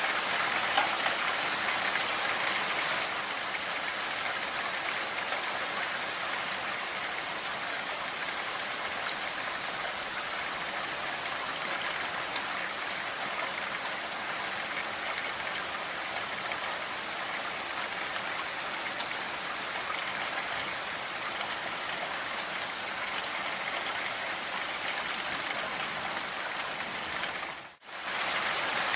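Steady rain falling, an even hiss of many drops. It cuts out for a split second near the end, then carries on unchanged.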